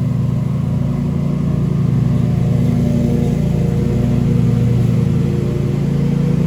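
Lawnmower engine running steadily, a loud low drone.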